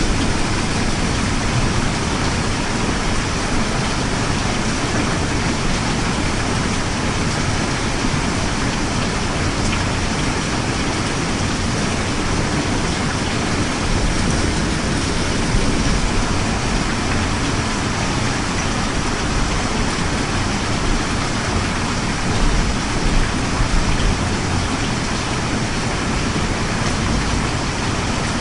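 Steady, heavy rain falling, a dense, even hiss without a break.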